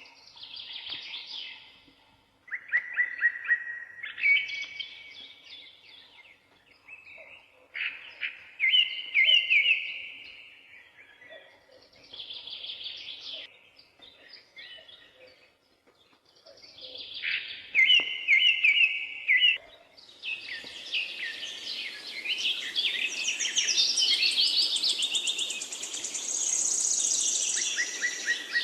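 Songbirds singing: short trilled phrases of a second or two, repeated with pauses. From about twenty seconds in, a denser chorus of higher, overlapping song runs over a steady hiss.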